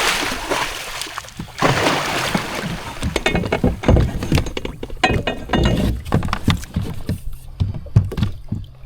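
Water splashing and sloshing against a jet ski, with a run of sharp knocks and thumps. A steady low hum sets in about seven seconds in.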